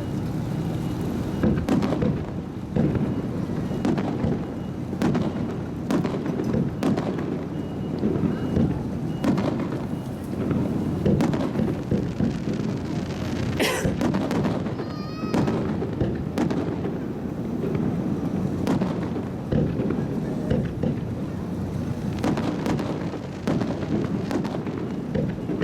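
Aerial firework shells bursting in rapid succession, a dense run of booms and cracks over a continuous rumble. A short warbling whistle rises about fifteen seconds in.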